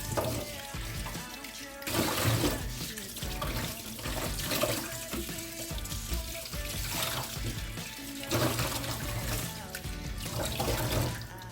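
Water running from a tap into a sink, under background music.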